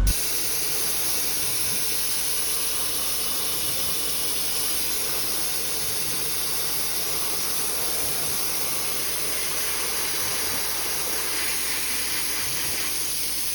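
Dry ice blaster's nozzle blowing a steady, unbroken hiss of compressed air.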